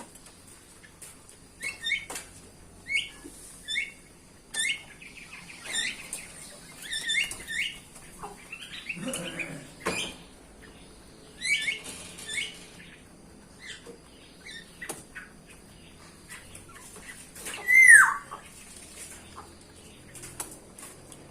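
Bulbuls calling in an aviary: a run of short, quick chirps through the first half, then one loud downward-sliding whistle about 18 seconds in.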